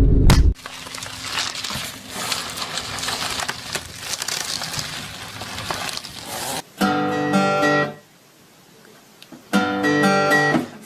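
An acoustic guitar is strummed in two short bursts of chords, each about a second long, in the second half. Before that there is a stretch of noise with scattered clicks.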